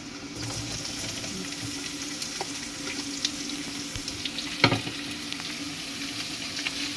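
Shiitake mushrooms sizzling as they stir-fry in a pan, a steady crackle over a faint hum. One sharp knock stands out about two-thirds of the way through.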